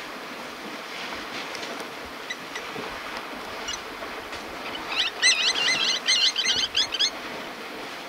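A bird calling in a fast run of short, looping high notes for about two seconds, starting about five seconds in, over a steady background rush of open-air noise.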